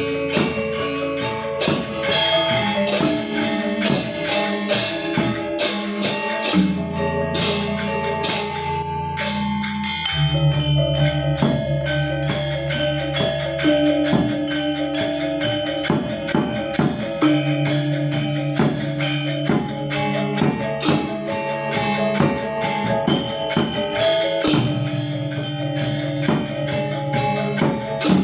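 Balinese gamelan gong ensemble playing: bronze metallophones struck in quick, dense strokes over long-held low gong tones, with a bright jangling layer on top. About seven seconds in, the high strokes thin out while a low tone holds, and the full ensemble comes back about ten seconds in.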